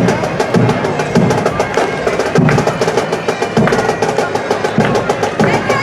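Marching drums: snare drums playing fast rolls over bass drum strokes about once a second.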